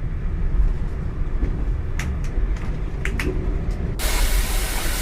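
Steam locomotive at a heritage railway: a low rumble with a few sharp clicks, then a loud hiss of steam that starts suddenly about four seconds in and keeps going.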